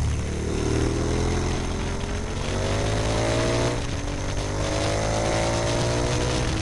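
Motorcycle engine accelerating hard through the gears: the pitch climbs, drops at an upshift just under four seconds in, then climbs again, over a steady low drone.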